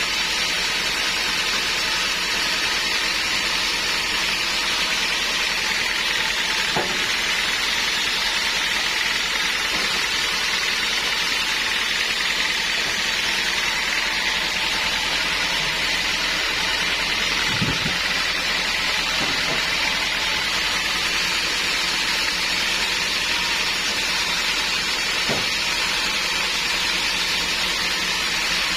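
Sawmill machinery running steadily with a hissing noise and a faint steady whine, with three faint knocks spread through it.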